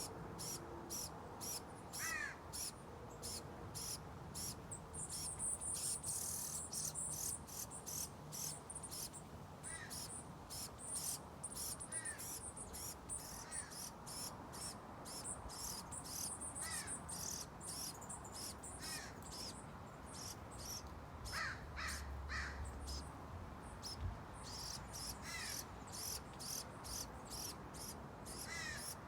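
Outdoor bird calls: a long, even series of short high chips, about two to three a second, with a few brief downward-sliding notes scattered through.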